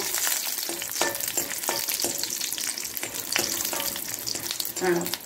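Dried red chillies and asafoetida sizzling in hot oil in a kadai. A metal spoon scrapes and taps against the pan now and then as they are stirred and roasted.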